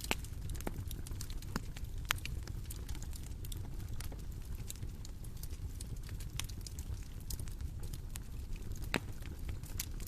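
Bonfire burning with a steady low rumble and irregular crackling pops, a few of them sharper and louder.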